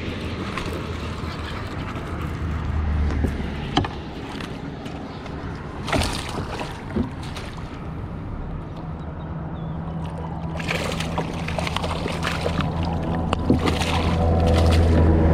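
Fishing kayak on the water: water sloshing against the hull, with a few sharp knocks and a low steady hum that grows louder over the last few seconds.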